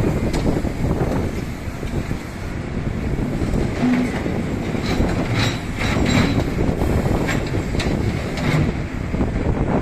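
Heavy road-works machinery running with a steady rumble and scattered metallic clanks and knocks.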